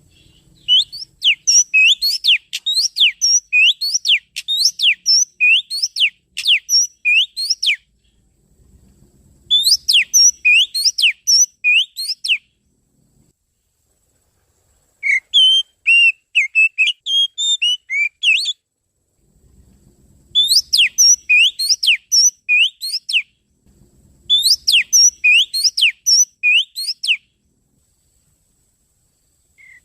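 Oriental magpie-robin (kacer) song played back as a trapping lure. It comes in five bouts of quick, sharp, rising whistled notes, about two a second, with pauses of one to three seconds between bouts.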